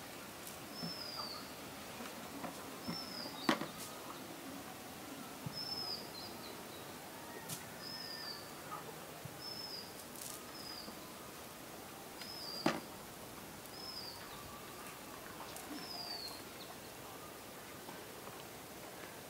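A bird calling over and over, short high notes that fall in pitch, about a dozen times a second or two apart, over steady outdoor background noise. Two sharp clicks stand out, about three and a half seconds in and near the middle.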